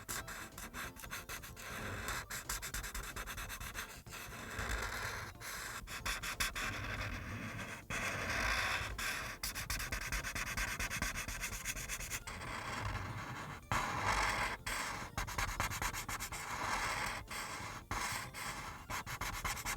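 Ohuhu Kaala series marker tip rubbing across paper in quick shading strokes: many short scratches and ticks, with a few longer rubbing strokes now and then.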